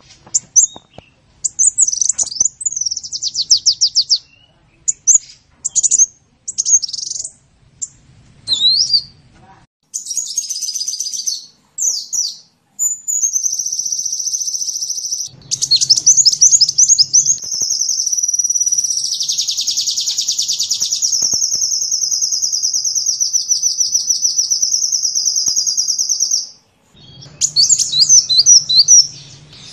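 Sunbird song: quick high chirps and short trills, then a long unbroken high trill that lasts about twelve seconds, and after a brief pause more fast chirps near the end.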